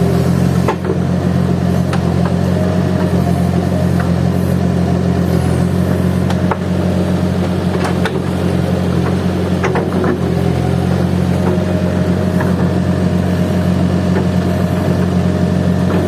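Diesel engine of a Case heavy machine running steadily at an even pitch, with scattered short clicks and knocks over it.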